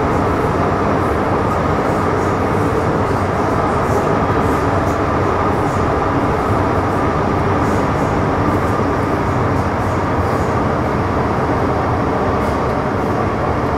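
MTR Metro Cammell M-Train electric multiple unit (CT-Stock C243, GEC GTO chopper traction) running between stations, heard from inside the carriage: a loud, continuous rumble of wheels and traction with a few steady tones above it.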